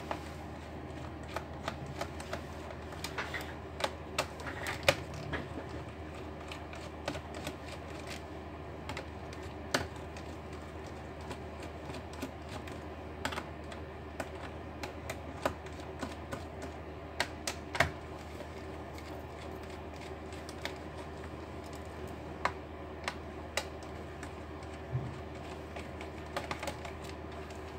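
Irregular light clicks and taps of small tools and plastic laptop parts being handled during a repair, some in quick clusters, over a steady low hum.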